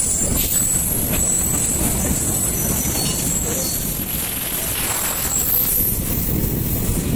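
Freight train of covered goods wagons rolling past, a steady rumble of steel wheels on rail, with thin high-pitched wheel squeal above it.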